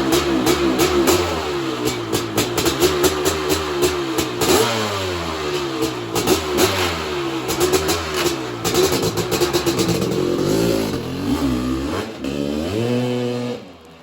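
A 1993 Honda CR500's big single-cylinder two-stroke engine is being revved up and down over and over, with sharp crackling pops between the blips. It has just been started on choke after sitting unused for months. Near the end it gives one last rising rev, and then the sound cuts off abruptly.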